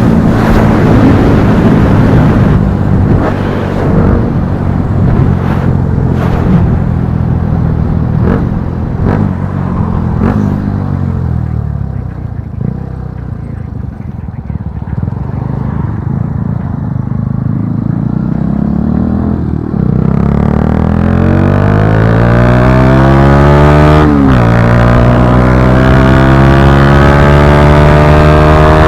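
Bajaj Pulsar NS160's single-cylinder engine through an Akrapovic slip-on exhaust while riding. In the first part it runs with sharp popping cracks from the exhaust. It then eases off, quieter and lower in pitch. In the last third the revs climb, drop at a gear change, and climb again.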